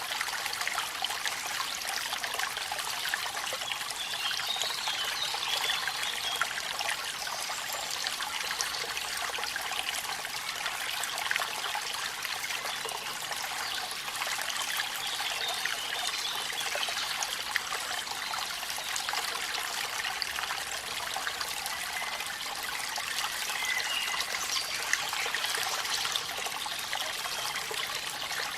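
Running water trickling and splashing steadily from a small waterfall in the rain, with many small drips and splashes.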